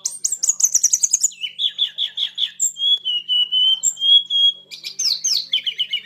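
Sunda robin (tledekan gunung) singing a rapid, varied song: fast trilled runs of repeated notes, slurred whistles and falling sweeps, one phrase after another without pause. In bird-keepers' terms it is a wild-caught bird in full 'konslet' song.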